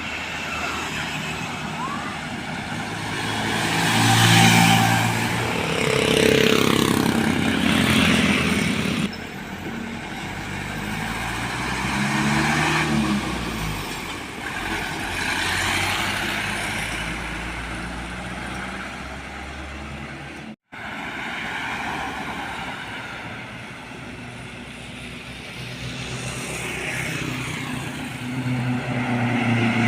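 Heavy trucks and other traffic passing on a road. Their engine drones swell and shift in pitch as each one goes by, loudest about four to nine seconds in, with another one closing in near the end. The sound changes abruptly at about nine seconds and cuts out for an instant about two-thirds of the way through.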